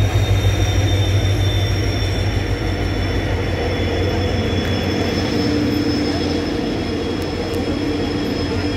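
Express train passing close by. The low engine rumble of a WDP4-class diesel locomotive fades over the first five seconds as LHB coaches roll past with continuous wheel-on-rail noise and a steady high whine.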